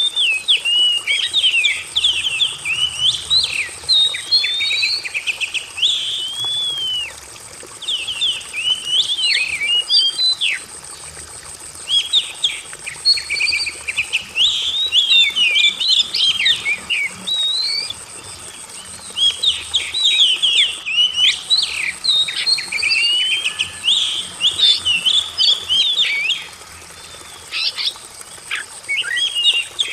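Oriental magpie-robin (kacer) singing: rapid, varied whistles and chattering notes in phrases of several seconds, broken by short pauses, over a steady high-pitched whine.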